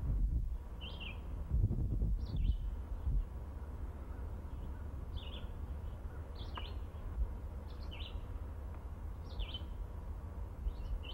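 A bird repeating a short, high chirp about seven times, roughly once every second or so, over a low rumble that is strongest in the first couple of seconds.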